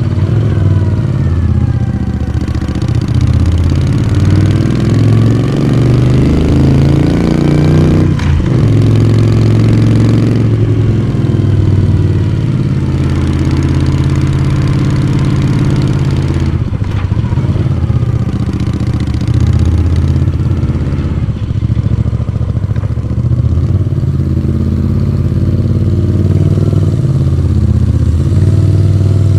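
Moto Guzzi V35's transverse V-twin engine and exhaust under way, the pitch rising as it accelerates, with breaks about eight and sixteen seconds in where it changes gear or eases off, then climbing again near the end.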